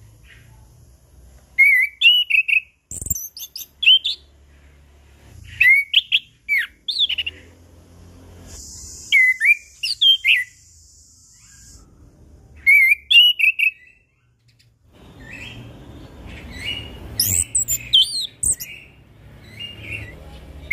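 Orange-headed thrush singing: short phrases of quick, sweeping whistled and warbled notes, repeated every second or two with brief pauses between.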